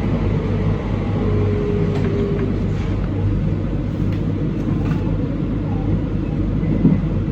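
Train running on the line, a steady low rumble and hum with a few light clicks and a brief faint whine about a second in.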